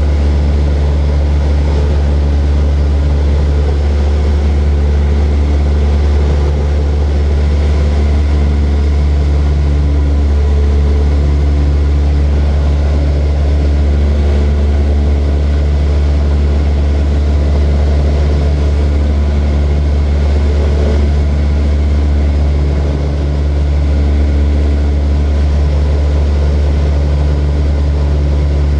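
Light propeller aircraft's piston engine and propeller running steadily: a loud, constant low drone with an even hum above it.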